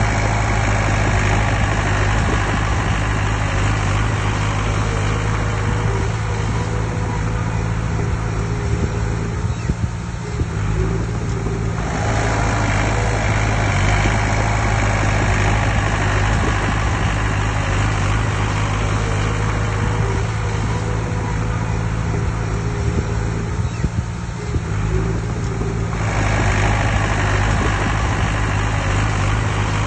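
Diesel engine of heavy earthmoving machinery running steadily, with a higher band of clatter and noise above it that changes abruptly about twelve and twenty-six seconds in.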